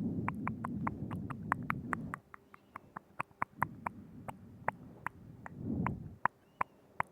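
Close-miked binaural ASMR mouth sounds: a rapid, irregular run of wet tongue clicks and lip smacks, several a second, over a low rumble in the first two seconds and again through the middle.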